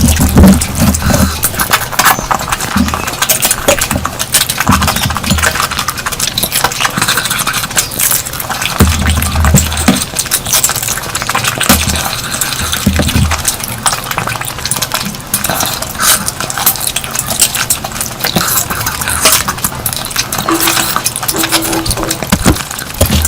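Close-miked eating sounds: dense, continuous clicking and smacking of chewing, with a few short low thuds.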